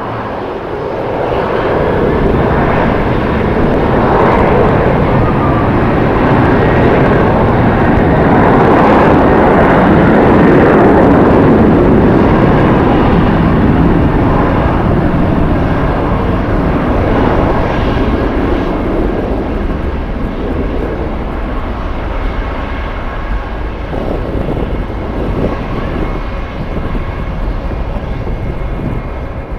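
Jet airliner's engines roaring as it passes, swelling over the first couple of seconds, loudest about ten seconds in, then slowly fading, with strong wind rumbling on the microphone underneath.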